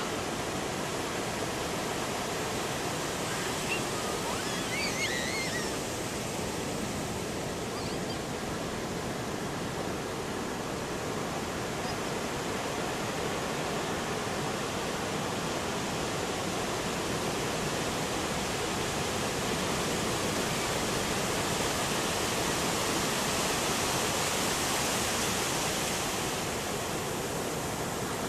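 Heavy ocean surf breaking and washing steadily onto the beach, raised by the large swell ahead of an approaching typhoon. It swells louder about three-quarters of the way through as a bigger wave breaks.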